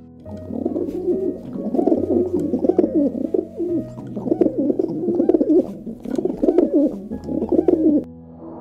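European turtle dove cooing: a low purring coo repeated in phrases, with short pauses between them.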